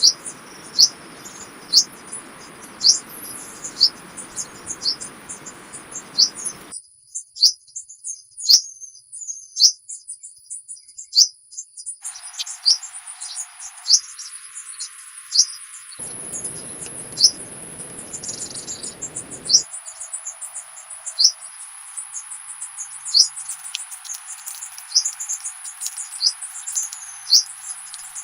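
Small birds chirping: a short high chirp repeated about once a second, over a steady high-pitched insect drone.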